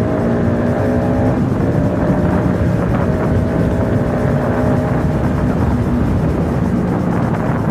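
Sport motorcycle engine running at a steady cruising speed, its pitch shifting slightly about a second in, under road and wind rumble.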